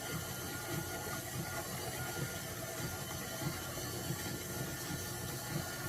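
Electric mixer running steadily at low speed, churning cultured sour cream into butter.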